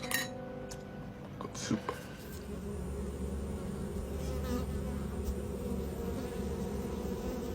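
A steady low buzzing hum that sets in about two and a half seconds in, after a couple of faint clicks.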